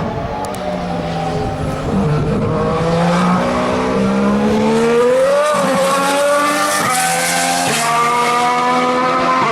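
A 2014 Formula 1 car's 1.6-litre turbocharged V6 running at speed on track, its note climbing steadily as it accelerates, then stepping abruptly twice on gear changes about seven and eight seconds in.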